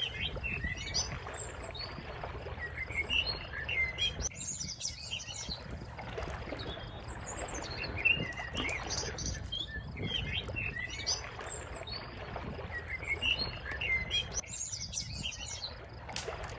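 Small birds chirping and twittering in repeated bursts over a low steady rumble. A dry branch snaps once, sharply, about halfway through.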